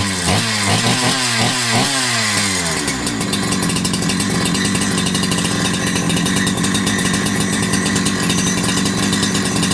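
Holzfforma G372XP chainsaw's two-stroke engine, running on a freshly fitted carburetor, revved up and down in several quick blips, then settling to a steady idle. It keeps running and idling after the carburetor swap, which had been the cause of its never running right.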